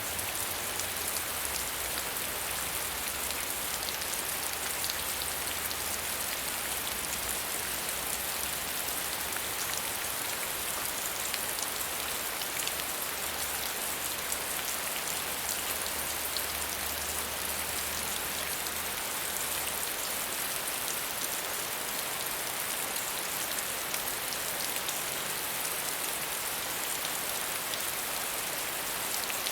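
Medium rain falling steadily, an even patter of drops on a surface.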